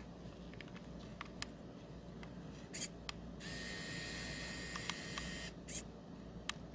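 A 7Tech 3D pen's filament feed motor whirs with a steady whine for about two seconds as it draws in a new strand of filament. A few light clicks come before it.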